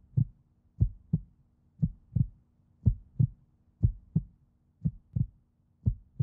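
Heartbeat sound effect: a slow lub-dub double thump repeating about once a second, over a faint steady low hum.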